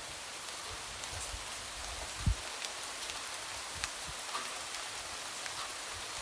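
Light rain falling: a steady hiss with scattered drops tapping. One louder, low single thump comes a little over two seconds in.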